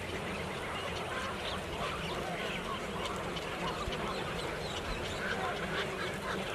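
Dense chorus of many birds calling at once, short overlapping calls from a large flock, over a low steady hum.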